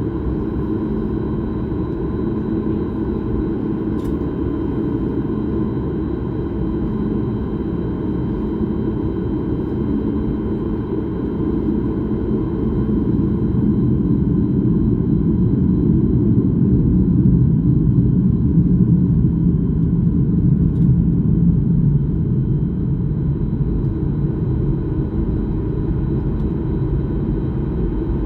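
Airliner cabin noise: a steady low roar of engines and airflow heard from inside the passenger cabin. It swells a little louder in the middle and then eases slightly.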